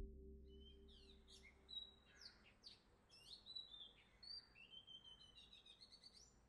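Faint birdsong: small birds chirping and twittering in many quick, short, sliding notes.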